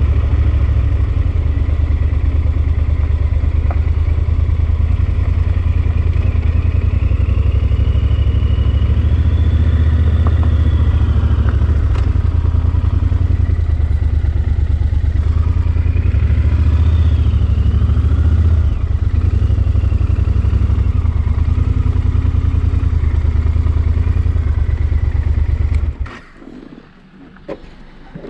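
Yamaha XT1200 Super Tenere's parallel-twin engine running steadily under way, a loud low drone heard from on the bike. Near the end it drops away sharply for about two seconds.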